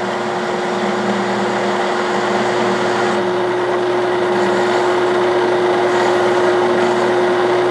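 1967–68 Clausing Colchester 1340 metal lathe running under power feed, taking a 100-thousandths-deep turning cut: a steady machine hum with a constant whine.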